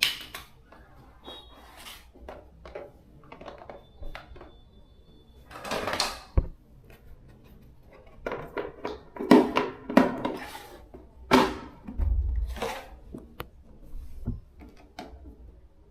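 Workshop handling noise during a fan motor repair: irregular knocks, clinks and scrapes as metal parts and tools are picked up and set down, with a few sharp louder hits in the middle.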